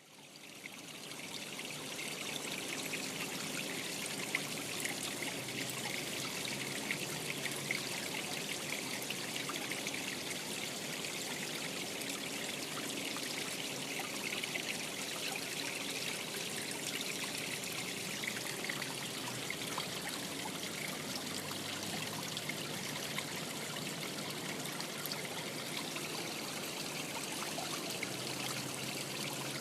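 Small stream trickling steadily, a fine busy splashing that fades in over the first second or two.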